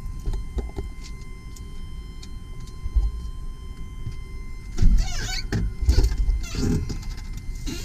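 A steady electronic warning tone from the truck, the sign of the headlights left on, with louder knocks and scrapes about five seconds in and again a second or so later.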